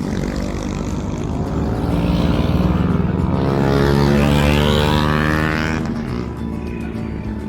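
Engine of a passing motor vehicle, growing louder and then fading, its pitch dropping as it goes by.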